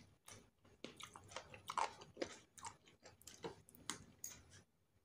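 A person chewing and biting chicken with rice eaten by hand: a run of irregular short mouth clicks and smacks, loudest a little under two seconds in.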